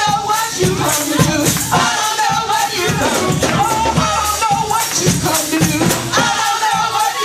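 Live gospel praise music: voices singing over a driving beat with rattling hand percussion and a low bass line.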